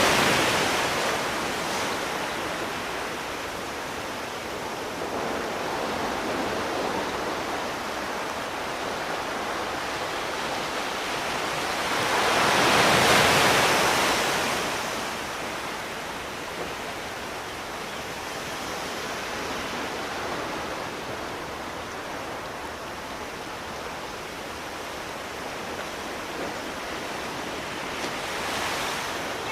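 Ocean waves breaking and washing on a shore as a steady rushing hiss, with one big wave swelling up and falling away about halfway through and smaller surges near the start and the end.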